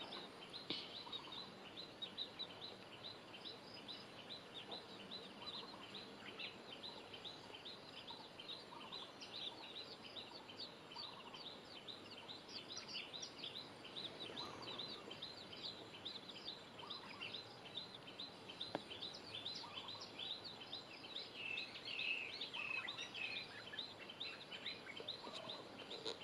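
Many small birds chirping at once, a dense and continuous stream of short, high chirps, faint against outdoor background noise.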